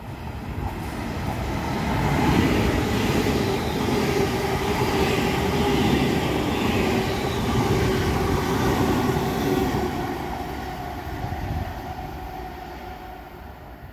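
A train passing through at speed: the noise builds over about two seconds, stays loud with a steady hum under the rush of wheels and air, then fades away over the last few seconds.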